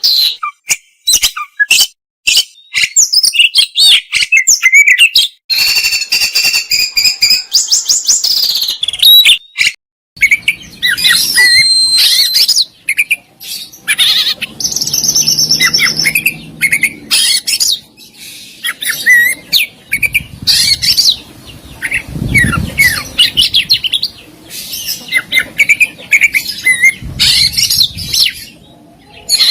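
Oriental magpie-robin (kacer) singing a fast, varied song of clear whistles, trills and rapid harsh chattering notes, with borrowed calls of other birds worked in. A lower, buzzier call about halfway through may be one of these borrowed calls.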